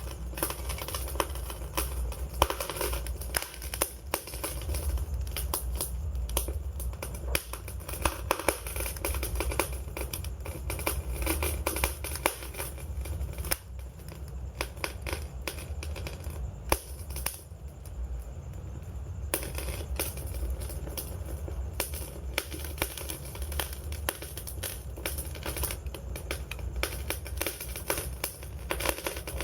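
Wood campfire crackling, with frequent sharp pops and snaps over a steady low rumble of burning.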